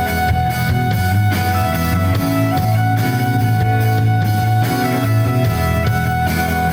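A rock band playing live: electric guitars over bass and drums in a steady, loud instrumental passage with held notes and no singing.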